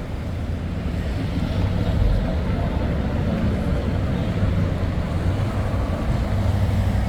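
Vehicle driving: a steady low engine and road rumble, with wind noise on the microphone.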